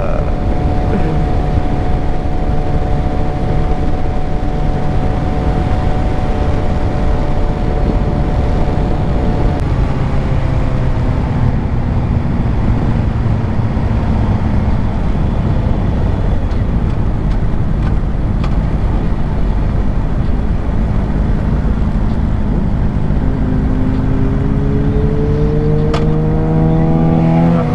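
Suzuki GSX-R600 inline-four engine holding a steady cruise under constant wind rush, easing off about ten seconds in and revving up in pitch near the end.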